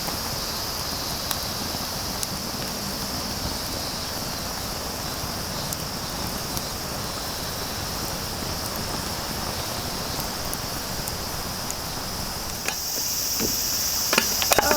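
Steady high-pitched droning of an insect chorus in a summer forest. It grows louder near the end, with a few sharp clicks.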